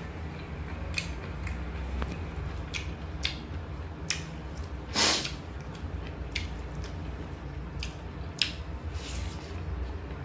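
Close mouth sounds of a person chewing a mouthful of rice and chicken liver, with scattered short wet clicks and smacks, and one louder brief noise about five seconds in, over a steady low hum.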